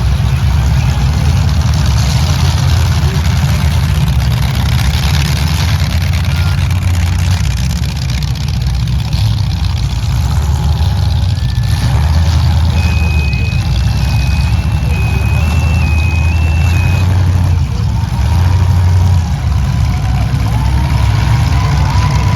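Demolition derby trucks' engines running loud and steady. About halfway through, a short run of electronic beeps alternates between two pitches.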